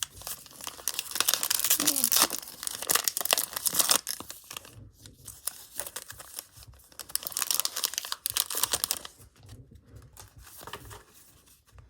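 A trading-card pack wrapper being torn open and crinkled by hand, in two spells of a few seconds each, dying down to faint handling near the end.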